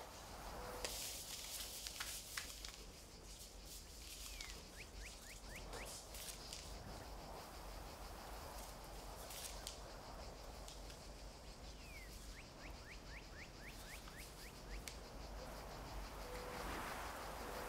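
Faint, steady background hiss with a bird calling twice, each call a quick run of about eight short falling notes. Light rustling and clicks of paper envelopes being handled.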